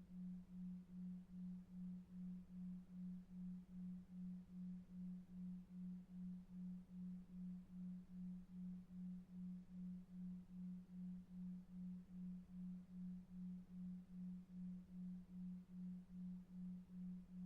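A low, steady sine tone pulsing evenly about two and a half times a second: a 2.5 Hz delta-wave pulsed tone for sleep, over a faint low rumble of brown noise.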